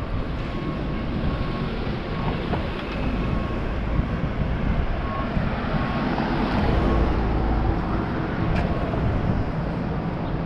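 Traffic noise with wind buffeting the microphone; a vehicle passes, swelling and fading about two-thirds of the way through.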